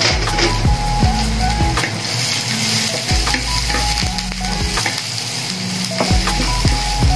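Diced onion and garlic sizzling in hot oil in a nonstick frying pan, stirred and scraped with a wooden spatula, over background music.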